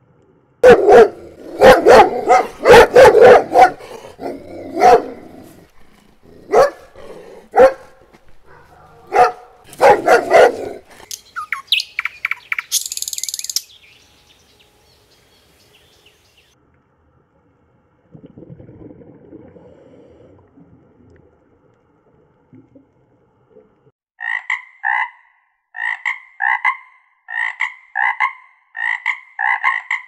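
A series of loud, short animal calls over the first ten seconds and a brief high chirp, then a frog croaking over and over, about one and a half croaks a second, through the last six seconds.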